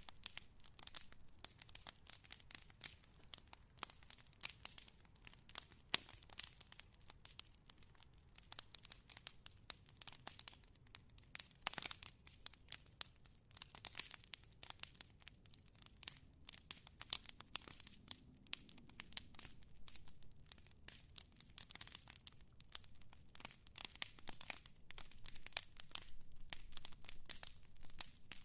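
Fire crackling: a dense, irregular run of small pops and snaps, with a louder pop about halfway through.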